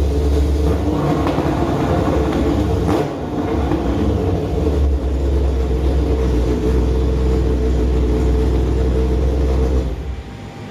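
Kawasaki ZZR1100 (ZX-11) big-bore inline-four engine running hard on a dyno during break-in. It is loud and steady, with a brief dip about three seconds in. Near the end the throttle shuts and the engine falls away.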